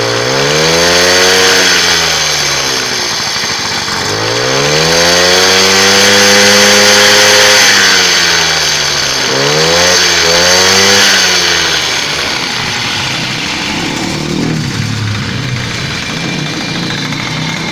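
Motorized bicycle's small engine running, revved up and let back down three times, then running more slowly and unevenly for the last few seconds. Its loose engine mounting has just been tightened.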